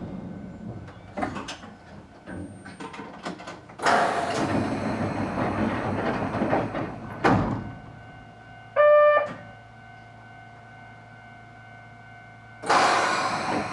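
Narrow-gauge electric train standing at a station with its sliding doors working: scattered clicks and knocks, a rush of noise about four seconds in, a short electronic chime near nine seconds over a steady hum, and another loud rush of noise near the end.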